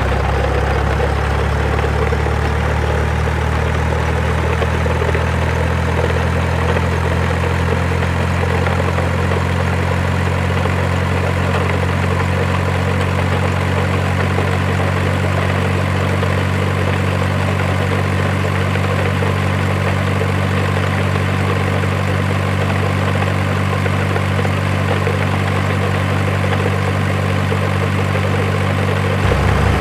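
A heavy truck engine running steadily at an unchanging low pitch, with no revving.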